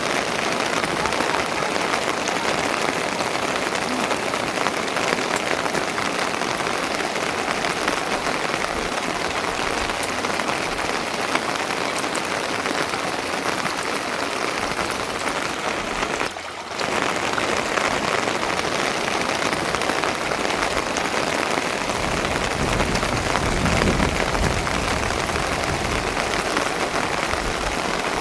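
Steady heavy rainfall, a dense even hiss with scattered drop ticks, dipping briefly about two-thirds of the way through; a low rumble joins in over the last few seconds.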